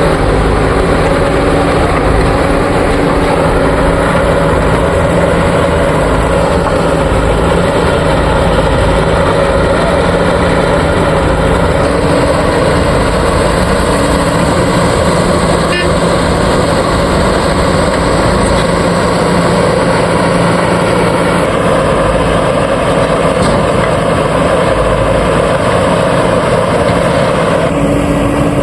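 Diesel engine of a JCB 3DX backhoe loader running steadily while it works, its engine note shifting slightly a few times.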